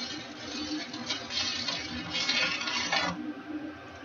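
Stick-welding arc crackling and sizzling as a 7018 rod burns at about 90 amps, running a continuous bead on steel; the arc cuts off about three seconds in, leaving a quieter hum.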